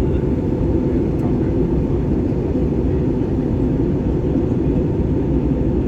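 Steady cabin noise of a jet airliner: engine and airflow noise heard from inside the passenger cabin, an even low rumble without changes.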